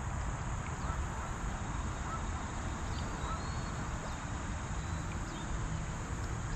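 Steady chirring of insects, with a few short faint bird chirps, over a low steady rumble.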